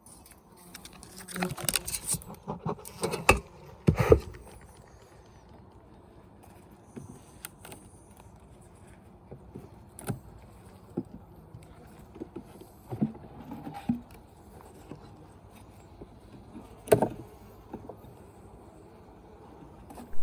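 Beehive equipment being handled: scattered wooden knocks, clicks and scraping. A cluster of scrapes and knocks comes in the first few seconds, with two sharp knocks around three and four seconds in and another loud knock near the end.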